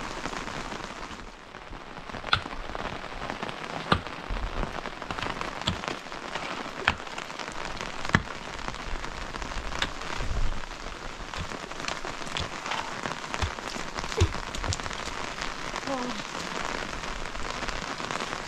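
Steady rain falling on surfaces, with scattered sharp taps of heavier drops landing at irregular moments.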